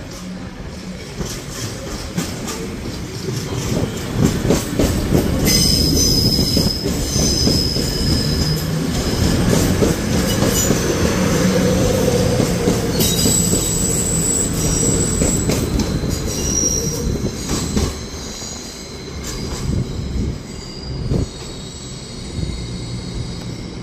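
A CrossCountry Voyager diesel multiple unit moving past on curved track, its engines rumbling. For about ten seconds in the middle, its wheels squeal on the curve in high, steady tones. The rumble builds over the first few seconds and falls away after it has passed.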